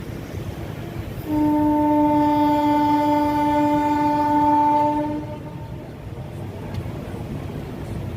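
Train horn sounding one long steady blast of about four seconds, over the continuous rumble of a moving train.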